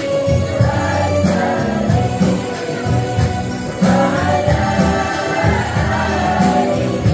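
Women's choir singing an Islamic devotional song in unison, over a steady beat of percussion.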